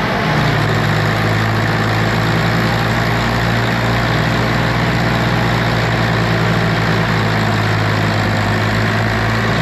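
Diesel tractor engines running hard in a tractor tug-of-war pull. The low engine note steps up in pitch a moment in, then holds steady.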